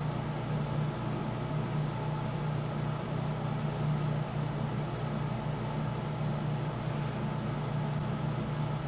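Steady machine hum with an even hiss and no distinct events, like a fan or motor running in the background.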